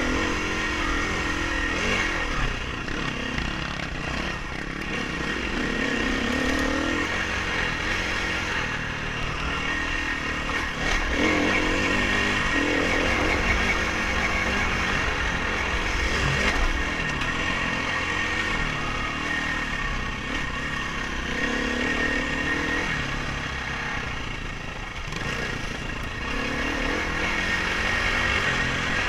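Dirt bike engine being ridden hard off-road, revving up and dropping back every few seconds as the throttle is worked.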